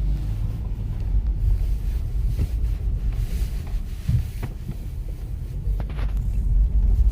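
A vehicle driving, a steady low rumble with wind buffeting the microphone and a few light knocks around the middle.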